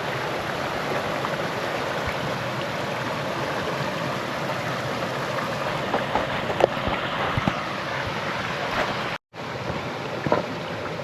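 Running stream water: a steady rush of a small mountain stream, with a few short splashes and knocks about six to seven seconds in. The sound drops out completely for a moment just after nine seconds.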